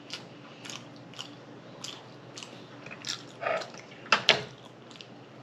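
Close-up mouth sounds of someone chewing food, with short wet lip smacks about every half second and a louder pair of smacks about four seconds in.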